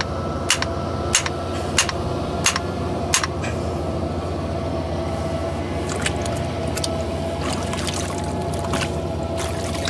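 Hammer blows on metal, about three every two seconds for the first few seconds and then scattered, as a stuck tractor driveshaft is knocked loose, over a tractor engine idling steadily.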